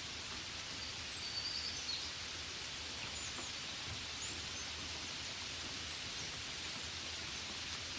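Steady gentle rain, an even hiss, with a few short high chirps between about one and four seconds in.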